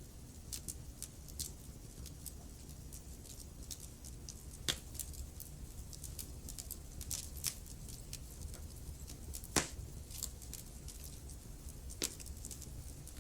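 Wood fire crackling in a fireplace: a steady low rumble of flame with many small crackles, and three louder sharp pops, about 5, 10 and 12 seconds in.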